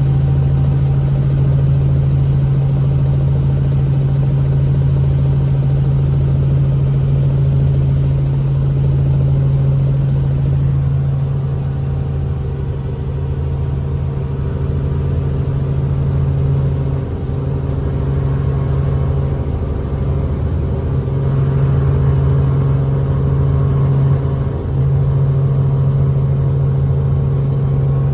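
Helicopter in flight: a loud, steady drone of rotor and engine with a strong low hum, dipping briefly twice in the second half.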